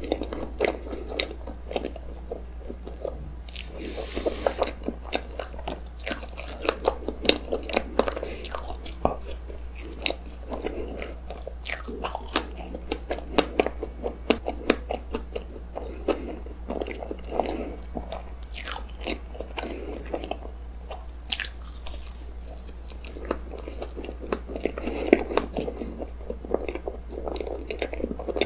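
Close-miked chewing of a soft cream-filled roll cake with strawberries: wet mouth sounds and many small clicks, over a steady low hum.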